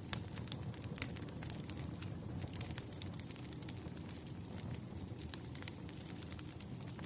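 Burning firewood crackling, with frequent sharp snaps and pops over a low steady rumble of the flames. Two louder pops come near the start.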